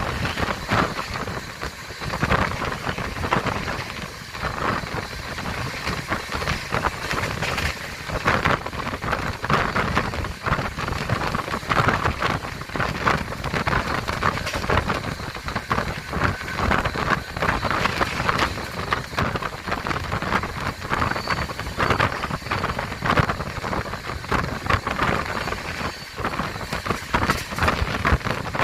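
Passenger train in motion: dense, continuous rattling and clatter of the carriage and wheels, with no break.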